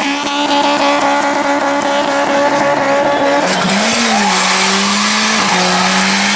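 Tuned car engine held at high, steady revs with tyres squealing in a burnout. About three and a half seconds in, the sound changes abruptly to another engine held at a lower steady pitch, briefly dipping and rising, with its tyres spinning.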